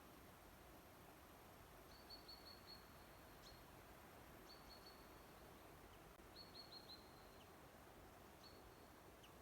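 Near-silent forest ambience: a faint steady hiss with a small bird's high, thin calls, given as four short runs of quick notes.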